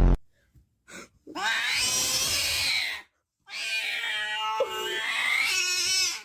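A cat in labour yowling: two long, drawn-out calls that rise and fall in pitch, each about two seconds, after a brief short sound about a second in.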